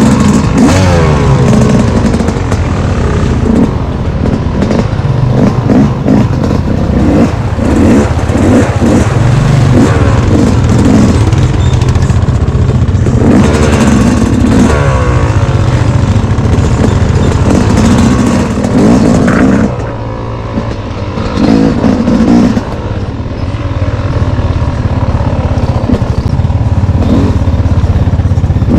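Dirt bike engine running hard on a trail, its revs rising and falling again and again. The throttle eases off briefly about two-thirds of the way through.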